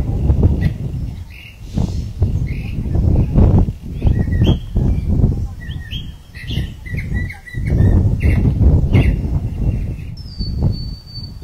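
Birds chirping in short calls, with a clear whistled note held for about a second near the end. Under them runs a low rumble that swells and fades.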